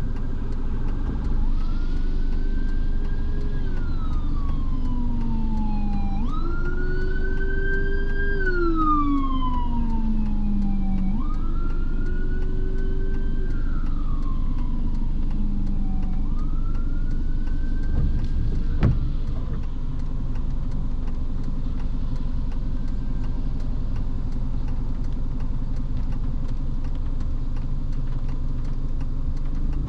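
An emergency vehicle's siren wailing, four slow rise-and-fall sweeps that stop about two-thirds of the way in. Under it is the steady drone of a car driving on a wet road, with a single thump just after the siren ends.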